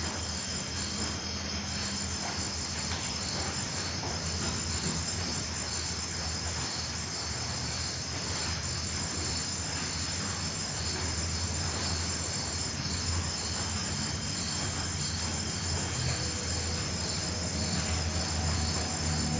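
Crickets chirring steadily, a continuous high trill with a regular pulsing beat, over a low steady hum.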